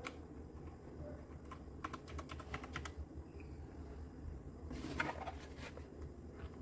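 Keystrokes on a Redragon K596 Vishnu mechanical keyboard with linear red switches: a quick run of key presses about two seconds in, then a denser, louder flurry around five seconds in, over a low steady hum.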